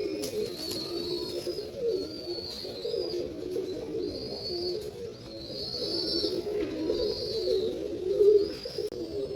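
Pigeons cooing, a low warbling murmur, with short high squeaks repeating about once a second over it.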